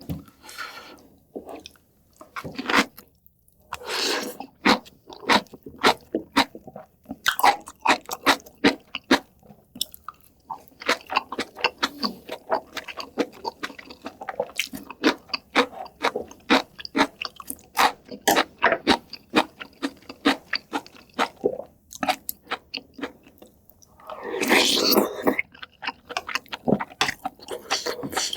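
Close-miked chewing and crunching of food, with many irregular wet mouth and teeth clicks. About 24 seconds in there is a louder noisy stretch lasting about a second.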